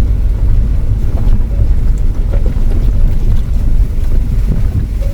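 Off-road vehicle climbing a rough dirt track, heard from inside the cabin: a steady low rumble of engine and tyres, with a few small knocks from the bumpy ground.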